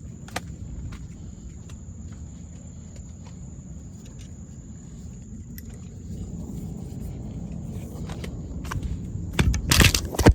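Insects trilling in one steady high note over a low steady rumble, with a few faint clicks and a loud brief burst of noise near the end.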